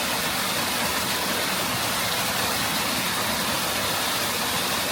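Fast-flowing water rushing over rocks, a loud steady hiss without rhythm or change.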